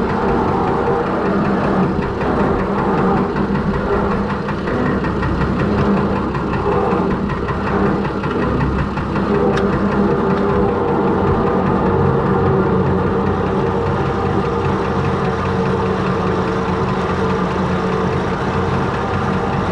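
Perkins six-cylinder diesel engine in a Fordson Major tractor running steadily with a diesel knock as the tractor is driven.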